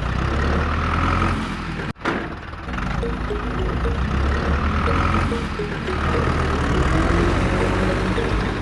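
A heavy vehicle engine running steadily with a deep low rumble, like a tractor's. It cuts out abruptly for a moment about two seconds in, then resumes.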